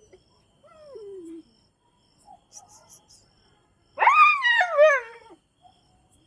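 A Chippiparai dog whining: a short whine falling in pitch about a second in, then a louder, wavering, higher cry lasting over a second about four seconds in.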